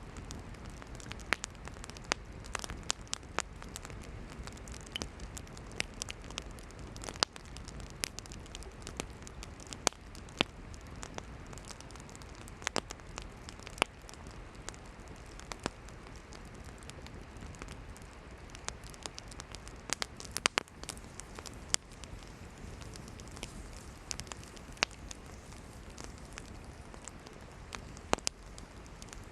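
Campfire of burning firewood: a steady soft hiss of flames with frequent irregular sharp crackles and pops from the wood.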